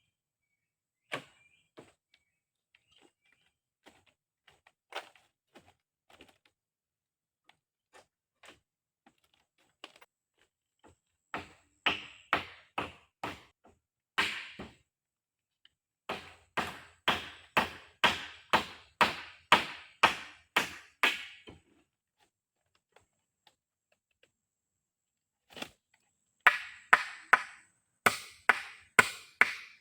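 Wood being chopped with a blade: after a few scattered light knocks, runs of sharp, evenly spaced strikes at about two to three a second, with short pauses between the runs.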